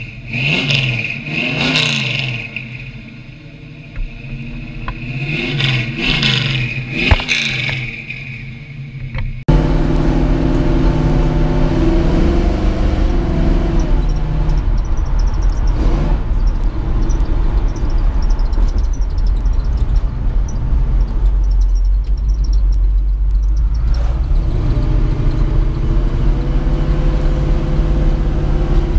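1955 Chevrolet Bel Air's 454 big-block V8 heard from inside the cabin while driving: a steady, loud low drone. Before it, about the first third holds a quieter, separate stretch of sound with sweeping pitch that cuts off abruptly.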